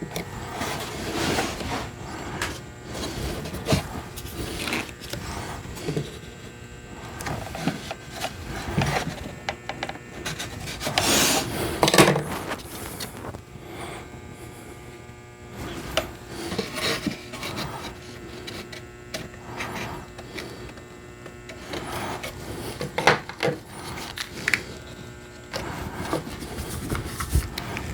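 Cedar boards being handled and rubbed against each other on a workbench, with irregular scraping and a few sharp knocks; one louder stretch of scraping comes about eleven seconds in.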